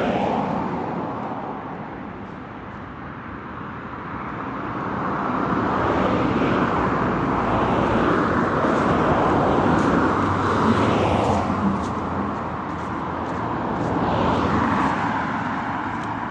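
Road traffic: several cars passing close by one after another, the tyre and engine noise swelling and fading as each goes past.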